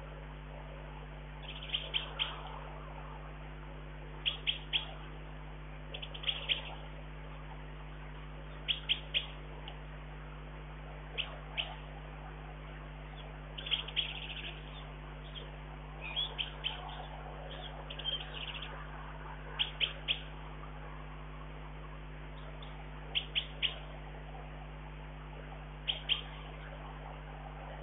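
Small bird calling: short high chirps in quick groups of two or three, repeated every couple of seconds, over a steady low hum.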